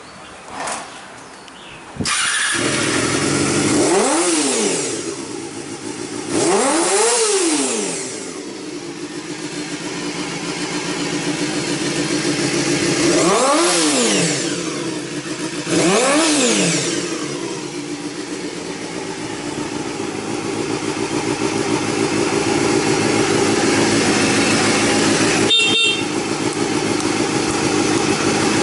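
Honda Hornet 250 (MC31) inline-four with an aftermarket short exhaust pipe starting up about two seconds in. It is then revved in four quick blips, each rising and falling in pitch, before settling into a steady idle. A brief sharp sound cuts in near the end.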